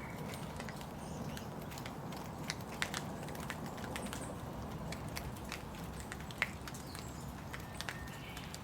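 Steady rain: a low, even hiss with many separate drops tapping and ticking close by at irregular moments.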